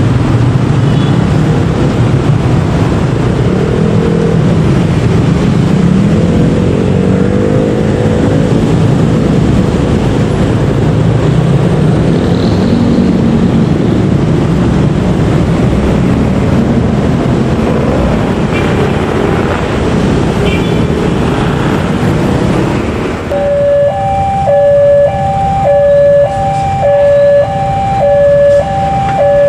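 A passenger train running on the track, making a steady rumble of wheels on rails. About 23 seconds in it gives way to a level-crossing warning alarm: two electronic tones, one high and one low, alternating in a regular repeating beat.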